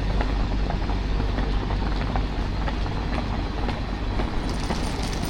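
Steady low rumble of a train at a station platform, with faint scattered clicks; a faint high whine comes in near the end.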